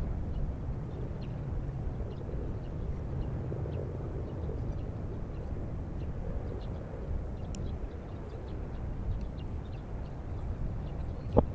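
Steady low outdoor rumble, with faint high chirps dotted through and one sharp click near the end.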